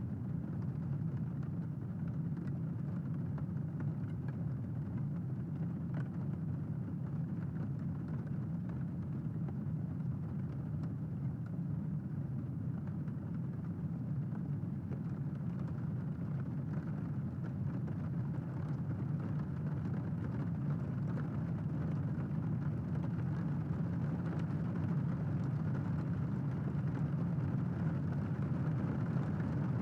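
Steady rain, a dull low rush with no thunderclaps, growing slightly louder near the end.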